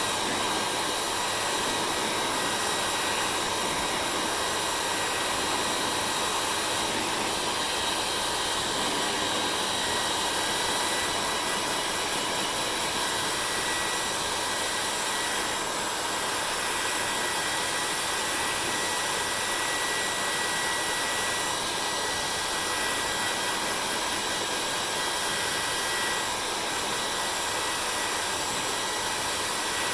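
Hair dryer running steadily: a constant rush of blown air with a thin high whine from its motor, a little quieter for the last few seconds.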